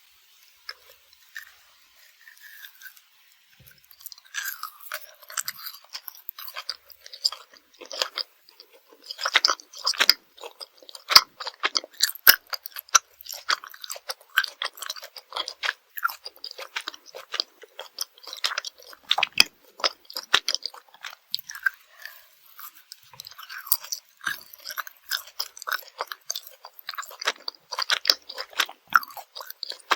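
Close-miked chewing and biting of Swedish gummy candy, with wet, sticky smacks and crunchy crackles in quick succession. It is faint for the first few seconds, then the chewing becomes steady and dense from about four seconds in.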